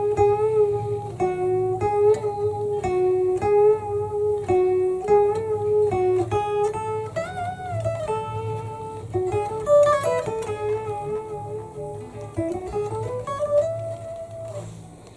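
Electric guitar played through a car audio amplifier and subwoofer: a lead melody of single sustained notes with slides and bends. A steady low hum runs underneath.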